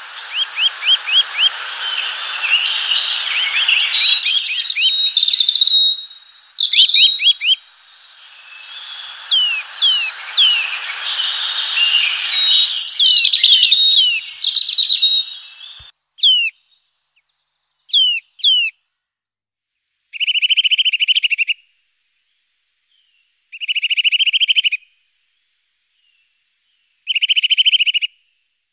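Songbirds singing. A dense, varied song runs over a steady hiss for the first half. After that come a few quick down-slurred whistles and then three short, dry trills held on one pitch, each about a second and a half long and a few seconds apart.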